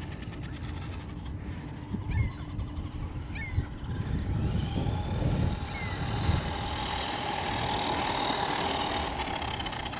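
Small electric RC monster truck's brushed motor and geared drivetrain whining as it speeds up on a top-speed run. The whine rises about halfway through, then holds steady and grows louder. The drivetrain is loud and doesn't sound the greatest.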